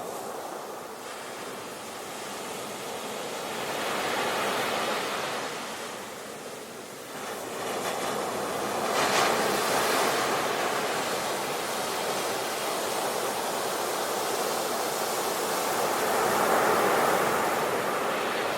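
Ocean waves breaking and washing in, in slow swells: one builds about four seconds in, a wave breaks more sharply about nine seconds in, and another swell comes near the end.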